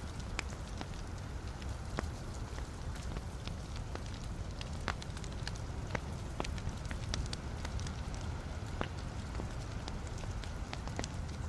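Wood fire burning in a fireplace, crackling: a steady low rumble of flames with many sharp pops and snaps of burning logs scattered irregularly throughout.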